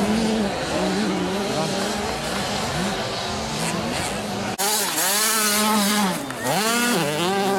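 Small 50 cc automatic motocross bikes racing, their two-stroke engines revving up and down in pitch. Just past halfway the sound changes suddenly to one nearer bike, revving hard with repeated rising and falling pitch.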